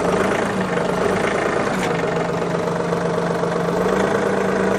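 A John Deere loader's engine idling steadily, with the constant hiss of strong wind across the microphone.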